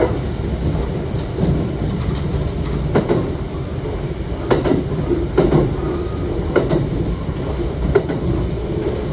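Kintetsu 1031 series electric train running along the line: a steady rumble of wheels on rail, with irregular clicks and knocks from rail joints. No clear inverter whine stands out.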